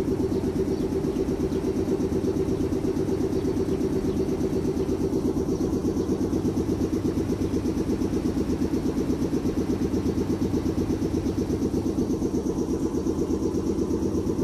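Steady running rumble of a train heard from inside the passenger cabin, with a fast, even pulsing.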